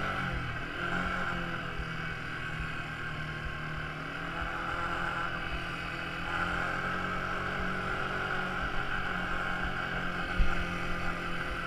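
Quad bike engine running steadily, its pitch wavering slightly, with a brief low thump about ten seconds in.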